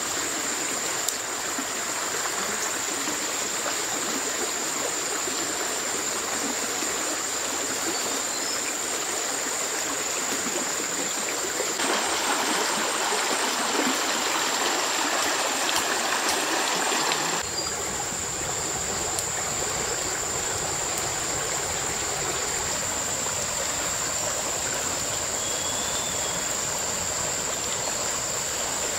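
Flowing stream water, a steady rushing noise, with a constant high-pitched whine over it. The sound shifts abruptly twice, about twelve and seventeen seconds in, and is a little louder between those points.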